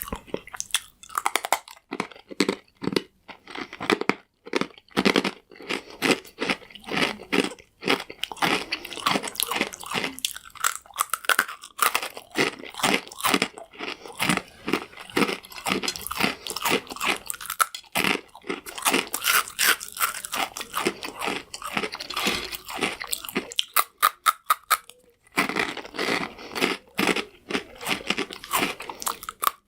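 Crunchy croutons being bitten and chewed close to the microphone: a rapid, irregular run of loud crunches, with a short pause about 25 seconds in.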